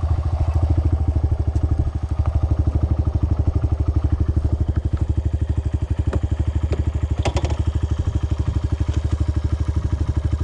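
Dirt bike engine running steadily at low revs, an even pulsing beat, with a few light clicks about seven seconds in.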